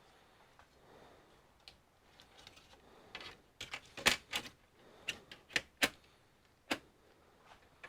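A run of about ten sharp, irregular clicks and taps from handling the parts of an all-in-one computer, the loudest about four seconds in.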